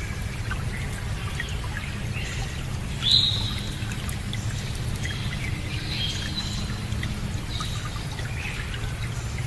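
Running water rushing steadily, with small birds chirping on and off. One sharper, louder chirp comes about three seconds in.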